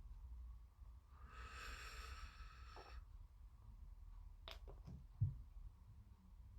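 Quiet workbench handling while gluing plastic model-kit parts: a faint breathy hiss lasting about two seconds, then a few light clicks and small knocks about two-thirds of the way in, over a low steady hum.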